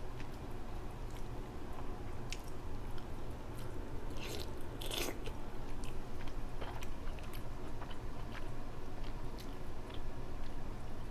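Close-miked eating of crab: chewing with scattered sharp clicks and crunches of shell, and a louder crackling crunch about four to five seconds in, over a steady low hum.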